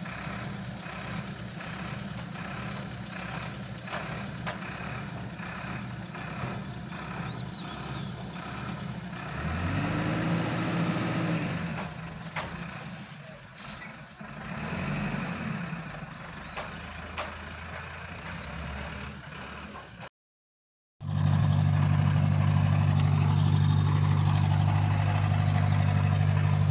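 Tata dump truck's diesel engine idling. It is revved up and back down twice, about ten and fifteen seconds in. After a brief gap the engine idles louder and steadier.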